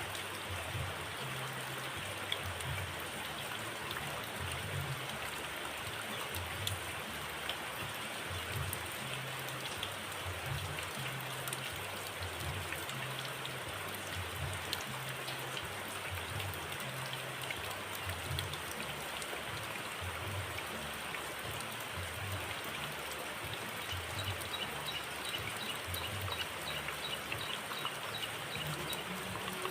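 Steady rain-like hiss, with a faint rapid series of high, evenly spaced notes near the end.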